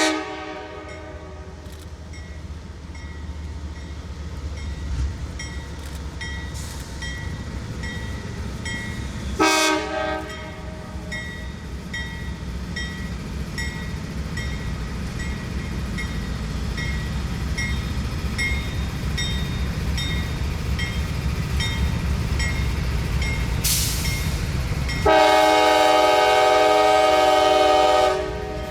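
Locomotive air horn sounding its chord: a blast cut off right at the start, a short blast about nine seconds in and a long blast near the end, over the low rumble of a train that grows steadily louder. A faint high tick repeats about twice a second for most of the stretch.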